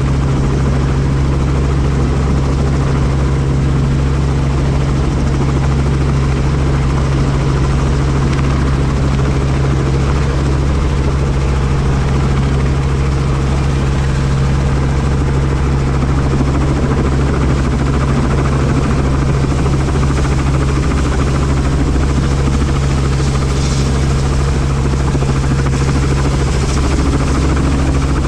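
Helicopter running steadily, heard from on board: an unbroken low drone of engine and rotor over a rushing noise.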